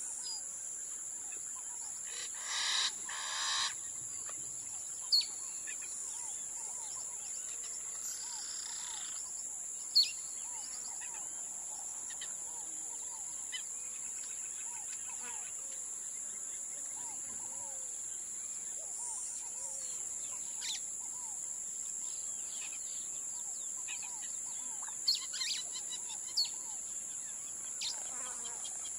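Wild birds calling: scattered chirps and several short, sharp, high calls, the loudest near the end, over a steady high-pitched drone. Two louder rustling bursts come a few seconds in.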